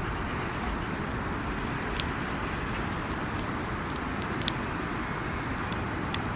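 Wood campfire burning, with scattered sharp crackles and pops over a steady rushing hiss; one pop stands out about four and a half seconds in.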